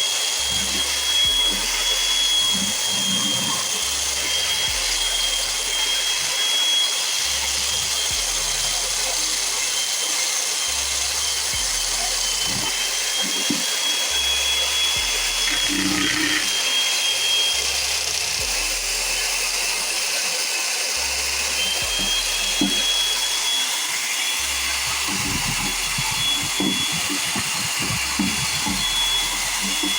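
An electric power tool running steadily with a high whine that drifts slightly in pitch, with light knocks here and there.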